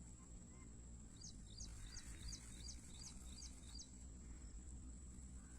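A bird calling faintly: a run of about eight quick, high chirps, roughly three a second, over a low background rumble.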